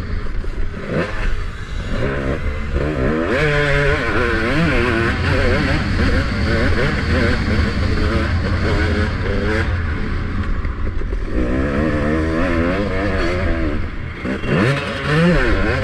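Motocross bike engine, heard from the rider's helmet camera, revving hard with its pitch rising and falling over and over as the throttle opens and closes through the bumps. Wind and rumble run underneath.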